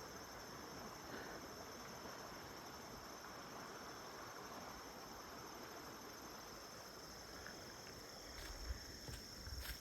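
Steady, high-pitched chorus of insects trilling without a break, over a faint even hiss. Near the end, a few footsteps thud and click on the trail.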